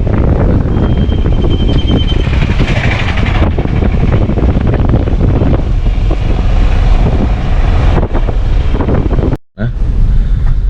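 Wind buffeting the microphone over vehicle road noise while travelling along a road: a loud, steady rumble, heaviest in the lows. It breaks off for a moment about nine and a half seconds in.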